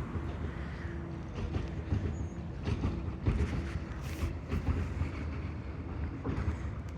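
Low, steady rumble of a road vehicle running on the street, with a faint steady whine above it and a few light knocks.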